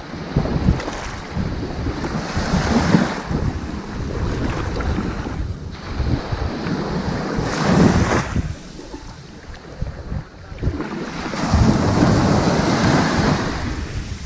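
Ocean surf washing up onto a sandy beach: three waves break and rush in, each swelling and fading over a few seconds, with a quieter lull between the second and third.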